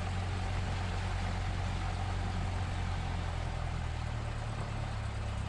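Cessna 172S's four-cylinder Lycoming piston engine idling steadily just after start-up, heard through the aircraft's intercom audio feed. The engine note shifts slightly about two thirds of the way through as the idle settles.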